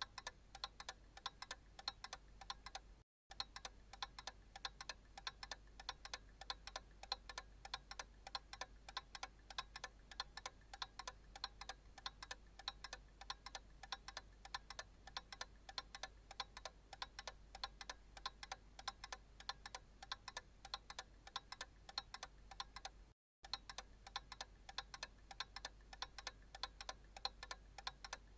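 Analog clock ticking steadily in an even run of light clicks, with two very short dropouts into silence.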